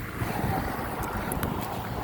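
Wind buffeting the microphone while riding a bicycle, a low uneven rumble that picks up slightly a moment in, with a few faint ticks later.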